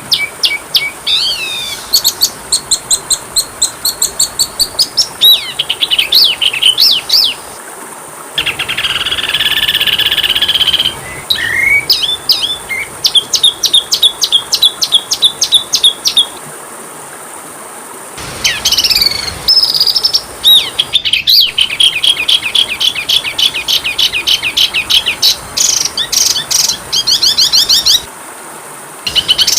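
Oriental magpie-robin (kacer) song: fast runs of high repeated chirps and trills, in phrases broken by short pauses.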